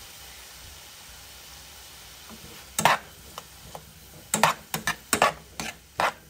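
Chicken and pineapple stir-fry sizzling steadily in a hot pan. About three seconds in, a stirring utensil begins knocking against the pan, about eight sharp strikes over the last few seconds, the first the loudest.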